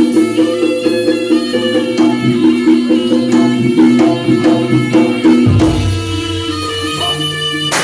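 Live East Javanese jaranan gamelan music: hand-drum (kendang) patterns under steady held notes of a reedy melody. About five and a half seconds in the drumming thins and deeper low notes come in.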